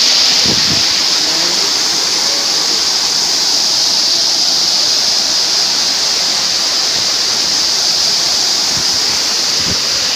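Waterfall's falling water rushing steadily and loudly, an even hiss-like wash with no let-up.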